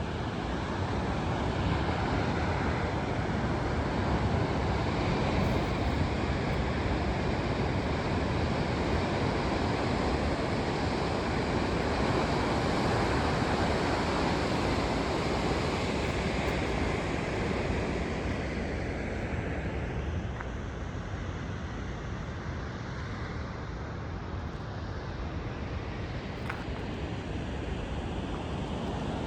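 Steady rushing of Pacific Ocean surf, easing off to a softer wash about two-thirds of the way through.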